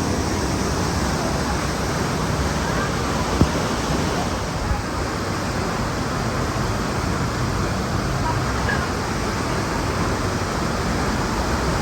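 Waterfall and fast river current rushing steadily, an even wash of water noise.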